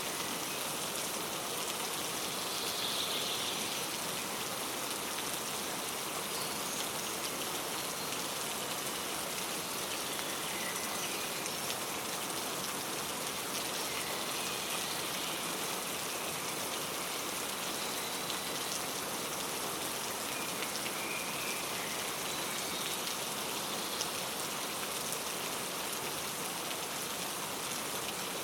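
Steady rain falling and pattering on surfaces, with a few faint short bird chirps over it.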